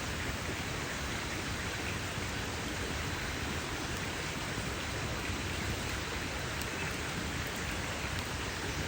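Campfire burning with a dense, steady crackle, heard as an even hiss with a few faint small pops.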